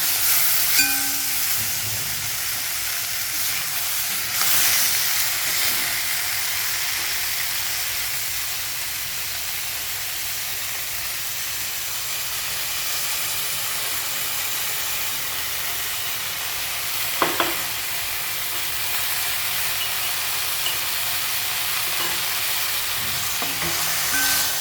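Food frying in a pan: a steady sizzling hiss, with two quick sharp clicks about two-thirds of the way through.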